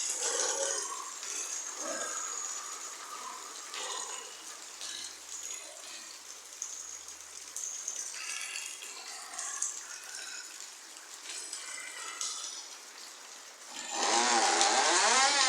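Rain pouring down, a steady hiss of falling water.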